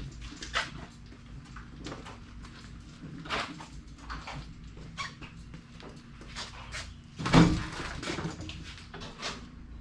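Irregular knocks, clicks and rattles of tools and metal parts being handled while an old furnace is taken apart, with one loud thump about seven seconds in, over a steady low hum.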